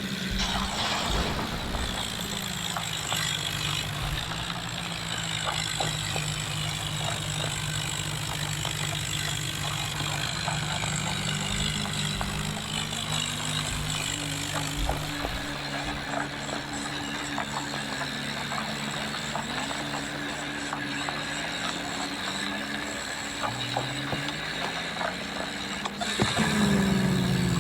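Tractor diesel engine running, its pitch shifting up and down as the revs change, with many rattling clicks. About 26 seconds in it becomes suddenly louder.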